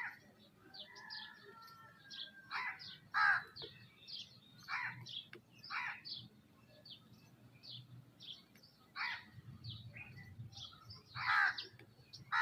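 Birds calling: loud harsh calls every second or two, over a run of short high chirps from smaller birds.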